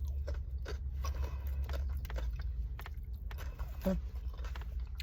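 Close-up chewing and crunching of a taco: a run of small, irregular crunchy clicks over a steady low hum.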